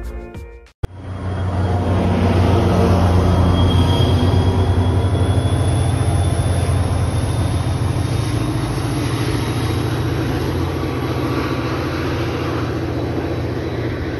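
Train passing: a heavy, steady low engine rumble that swells up within the first couple of seconds and then slowly fades.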